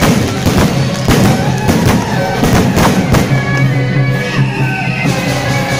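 Aerial fireworks shells bursting in a quick run of bangs over the first three seconds or so. Loud music with long held notes plays underneath and carries on alone near the end.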